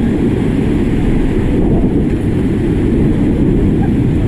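Loud, steady rumble of rushing river water with wind buffeting the microphone, as on a raft in whitewater. Faint voices shout now and then underneath.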